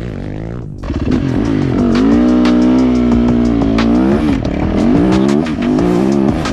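Dirt bike engine running hard, cutting in sharply about a second in, its pitch climbing and dropping repeatedly as the throttle is worked.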